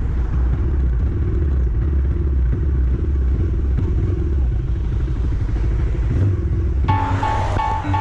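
Steady low rumble of a moving vehicle. Music with plucked notes starts near the end.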